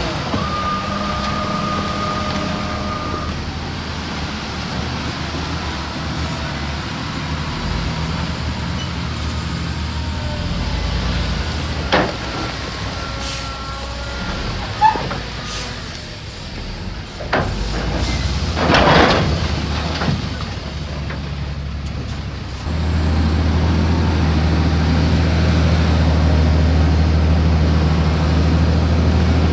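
Heavy diesel engines of earthmoving machines running, with a steady tone in the first few seconds, a few sharp clicks, and a short hiss about two-thirds in. A little after three-quarters of the way through, an engine powers up and runs louder and steady.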